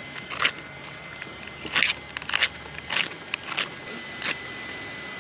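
Metal striker scraping along a magnesium fire-starter in about six short, sharp strokes, spaced unevenly, as magnesium is shaved off and sparks are struck to light a campfire.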